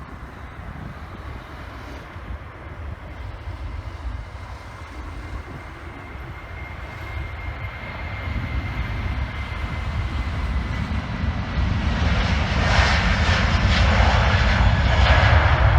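Airbus A330's jet engines at takeoff, a steady high whine over engine noise that grows steadily louder, becoming a loud roar in the last few seconds.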